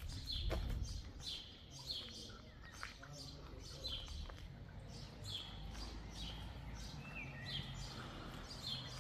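A small songbird chirping over and over, short high downward-sweeping chirps a little more than once a second, over a low background rumble.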